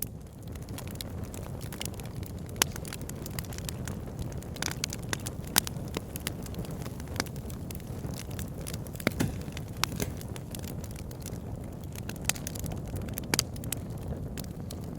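Fire burning in a fireplace, with a steady low rumble of the flames and irregular crackles and pops, a few of them sharper and louder than the rest.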